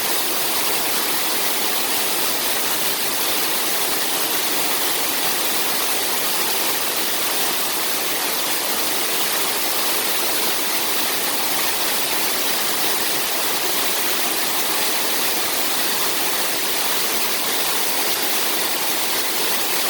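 Trahlyta Falls, a mountain waterfall, falling steadily: an even, unbroken hiss of rushing water.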